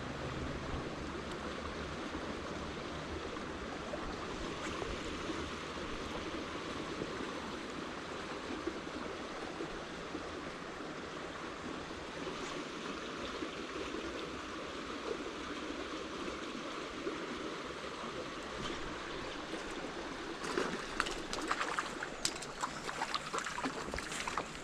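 Small shallow stream flowing and babbling steadily. Scattered clicks and knocks join in during the last few seconds.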